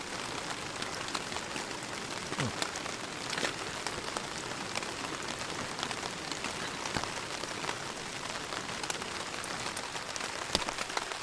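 Heavy rain falling on a tent: a steady hiss with many separate drops hitting.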